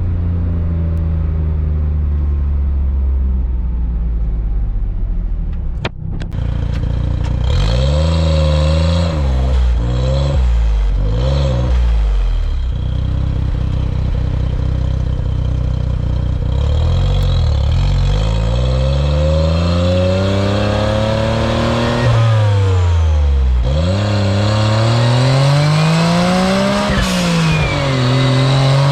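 Autozam AZ-1's turbocharged three-cylinder engine, fitted with a straight downpipe without catalytic converter, running steadily, then revving up and down repeatedly: a few quick rises and falls about eight seconds in, then longer climbs and drops in pitch through the second half.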